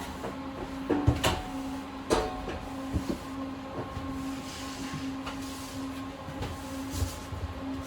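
Steady electrical hum of a standing tram, with scattered knocks and clunks.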